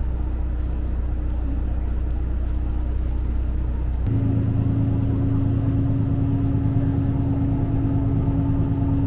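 Steady drone of a diesel railcar's engine and running gear heard from inside the car; the engine note changes abruptly to a higher one about four seconds in.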